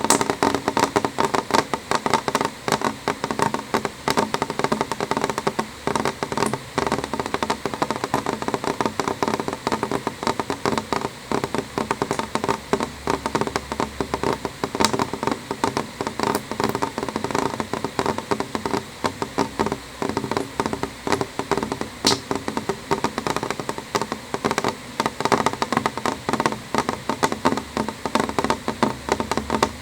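Rain falling on a window pane: a dense, unbroken run of small drop taps at an even level.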